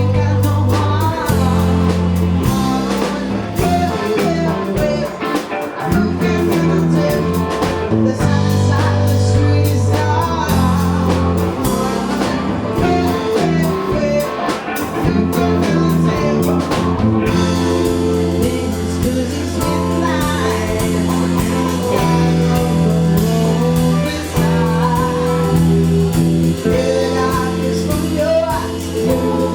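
Band playing a blues-rock song: guitar, bass and drums, with a singer's voice over them.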